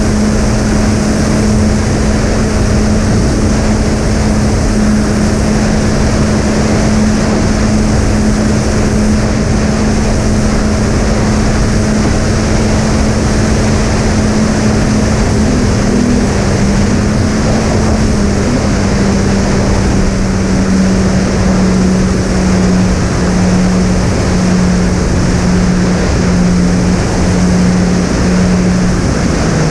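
Twin brushless electric motors with three-blade propellers on a fixed-wing model plane, running steadily at cruise throttle over a constant rush of airflow noise. The hum drops slightly in pitch about eighteen seconds in, as the throttle eases back a little.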